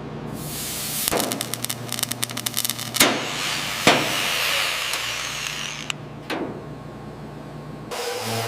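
A power tool running steadily, with a quick rattle of clicks early in its run and a few sharp knocks against metal.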